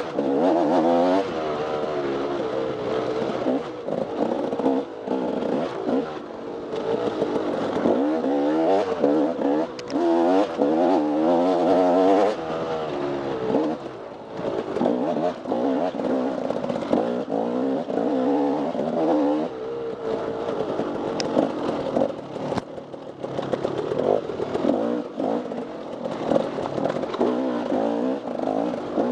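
Off-road dirt bike engine revving up and down continually as it is ridden hard through a harescramble course, the pitch rising and dropping every second or so, with scattered knocks and clatter.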